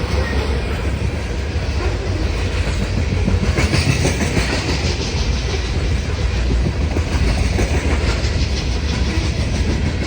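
Loaded coal train rolling past close by: a steady low rumble with wheels clicking over the rail joints.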